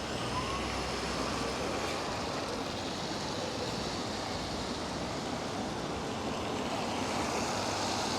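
Steady rain with the hiss of traffic on wet city streets.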